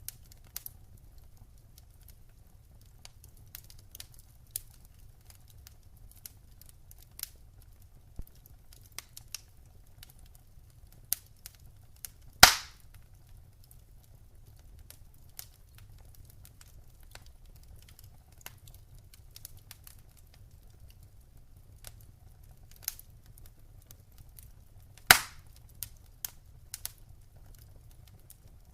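Wood fire in a fireplace crackling: scattered sharp snaps and pops at irregular intervals, with two loud pops, one about halfway through and one near the end, over a faint steady low rumble.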